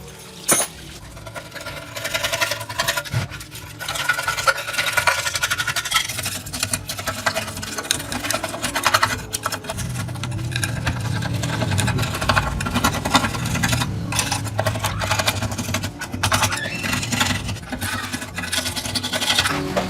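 Rapid, repeated scraping strokes, a hand tool worked fast and hard over a surface.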